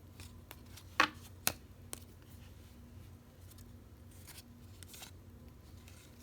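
Baseball trading cards being handled and flipped through: two sharp snaps about a second in and half a second later, a lighter one just after, then faint ticks of card on card.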